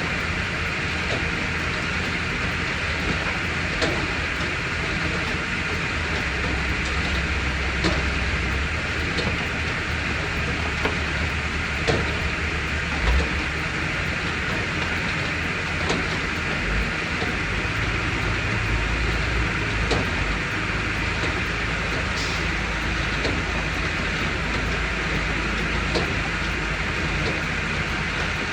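Machinery engines idling steadily while they warm up after a cold start, with scattered light clicks and knocks.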